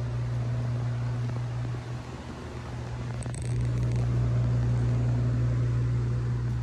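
Infiniti G35's V6 engine idling steadily, a low drone that gets louder from about halfway through.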